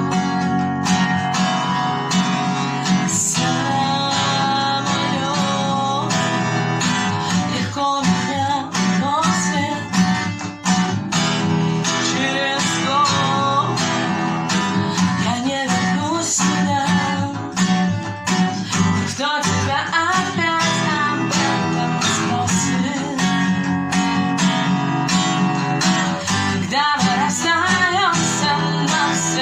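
Acoustic guitar strummed in a steady rhythm, with a wavering wordless melody line over it from about eight seconds in.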